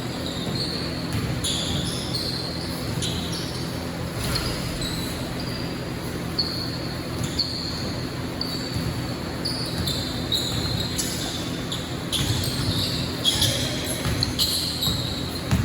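Basketball game play: the ball bouncing on a hard court and short, high sneaker squeaks, more frequent near the end, over a steady low background of the gym and crowd.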